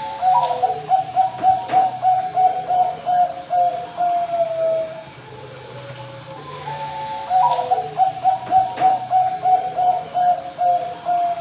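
Thai-bred 'Bangkok' zebra dove (perkutut) singing its cooing song: twice, a short opening note followed by a long run of rapid pulsed coos, about three a second, slowly falling in pitch over about four seconds.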